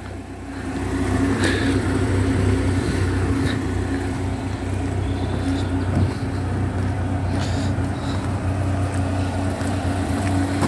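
2004 MG TF's four-cylinder K-series engine idling steadily.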